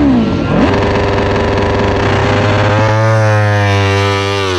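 MotoGP racing motorcycle engines revving loudly, their pitches sliding up and down over one another. About three seconds in, one engine comes to the fore holding a steady high note, dipping briefly near the end.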